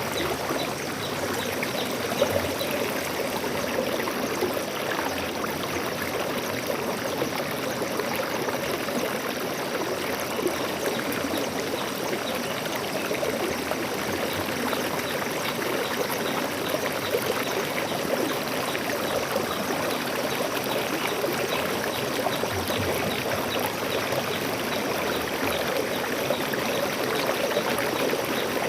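A shallow stream flowing steadily over stones, with a continuous babbling and trickling.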